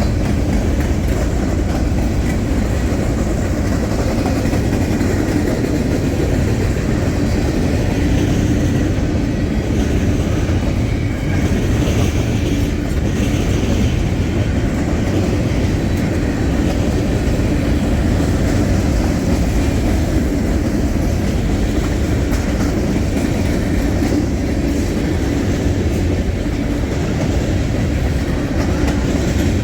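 A Canadian National manifest freight train's cars rolling steadily past, a continuous loud rumble with the clack of wheels over the rail.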